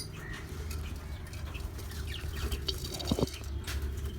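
Aviary lovebirds and budgerigars chirping faintly over a steady low hum, with one short, louder call about three seconds in.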